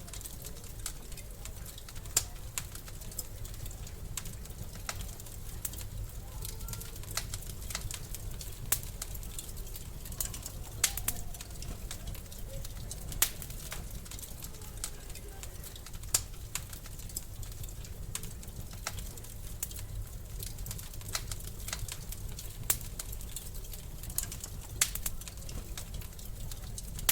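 Wood fire crackling in a fireplace: sharp, irregular pops a second or a few seconds apart over a steady low rumble.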